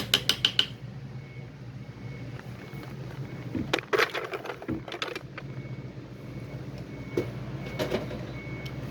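A quick run of sharp clicks, then scattered clicks and knocks about four seconds in and again near the end, from tools and parts being handled while a water heater is taken apart. A steady low hum runs underneath.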